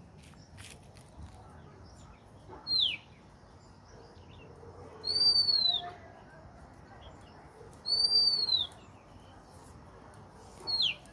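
A single bird calling with clear, high whistles: four calls a few seconds apart, short falling notes alternating with longer arched ones.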